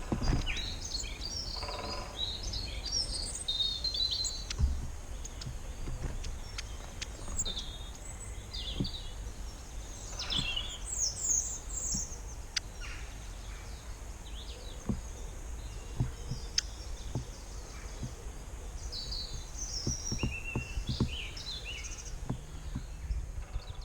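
Wild birds chirping and singing in short phrases throughout, over a steady low rumble.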